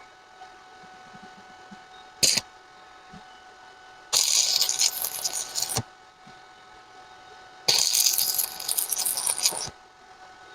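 Stick welding with a 2.5 mm electrode on a cast-iron vise: a single knock, then two short runs of crackling arc, about one and a half and two seconds long, each cutting off sharply.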